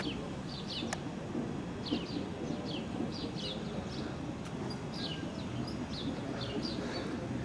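Small birds chirping: many short falling chirps scattered throughout, over a low steady outdoor background rumble.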